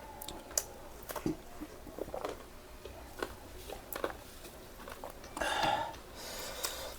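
Eating sounds: scattered small clicks and smacks of chewing, with a short breathy sound about five and a half seconds in.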